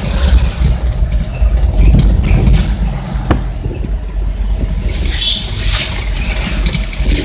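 Truck driving on the road: a steady, heavy low rumble of engine and road noise, with a single sharp click about three seconds in.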